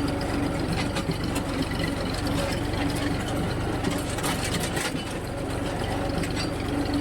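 Tractor engine running steadily with a low hum while the tractor is driven.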